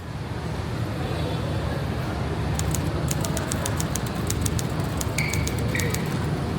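City street ambience: a steady low rumble of traffic, with a run of rapid faint ticks in the middle and two short high beeps about five seconds in.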